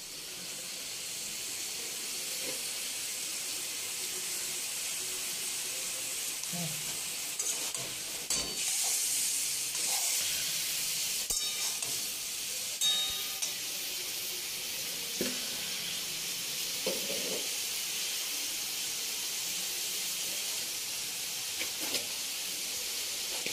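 Broccoli sizzling in oil as it is stir-fried with spices in a metal kadai: a steady frying hiss, with a metal spatula scraping and knocking against the pan a few times.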